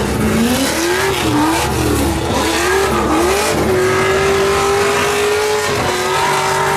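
Drift car engine revving in repeated rising and falling surges, then held steady at high revs for about two seconds before easing slightly.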